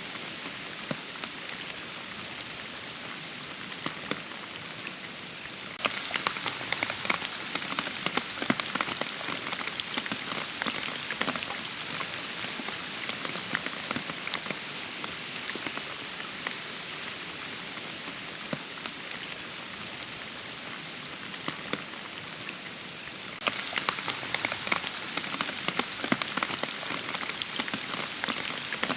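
Steady rainfall with many individual drops ticking. About six seconds in the rain turns suddenly louder and denser, eases off through the middle, and jumps up again near the end.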